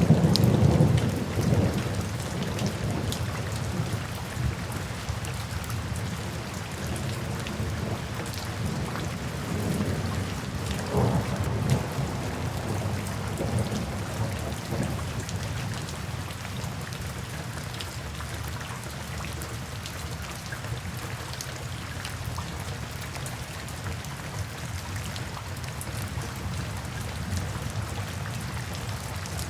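Steady rain falling, with thunder: a loud low rumble right at the start that fades over about two seconds, and a softer rumble about eleven seconds in.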